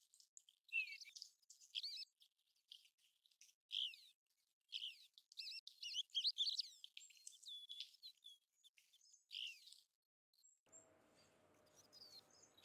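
American golden plover calls: faint, short, high whistled notes with sliding pitch, several overlapping, coming thickest in the middle and stopping about three-quarters of the way through.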